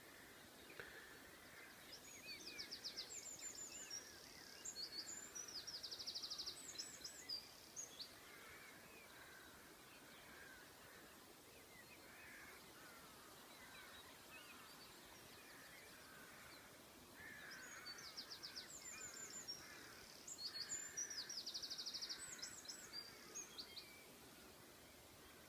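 A songbird singing two long phrases of rapid high trills and whistles, one near the start and one about two-thirds of the way through, over fainter chirping from other birds in a dawn chorus.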